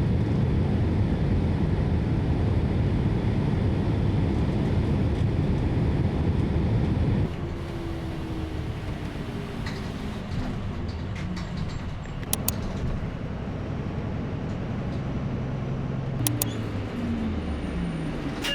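A vehicle ride: a steady loud rumble that drops suddenly about seven seconds in, then a quieter rumble with falling whines, as of a train slowing down, and a few sharp clicks.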